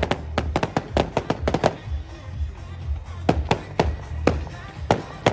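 Fireworks going off in rapid bangs and crackles, a dense run in the first second and a half, a short lull, then more bangs spaced out. Music plays underneath.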